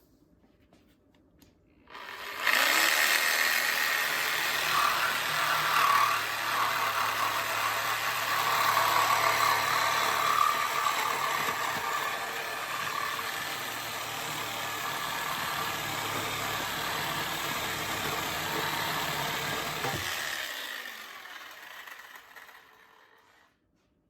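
A power cutting tool cutting through an old steel exhaust pipe. It starts suddenly about two seconds in and runs loud and steady, then its motor cuts out and the sound dies away over a few seconds.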